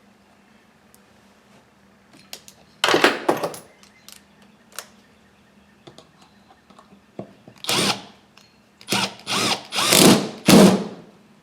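A power drill running in short bursts, probably driving fasteners during the chainsaw's reassembly: one burst about three seconds in, then about five quick bursts near the end.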